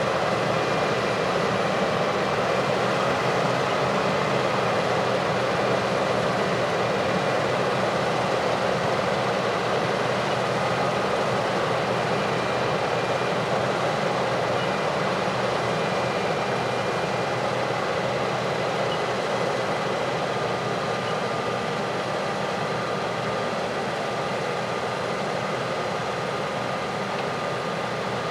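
Heavy harvest machinery running steadily: a dense, even mechanical noise with faint steady whines, easing off slightly in the second half.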